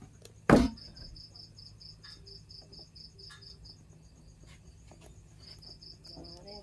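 Cricket chirping in a steady, fast, even pulse of about six chirps a second. A single sharp knock about half a second in is the loudest sound.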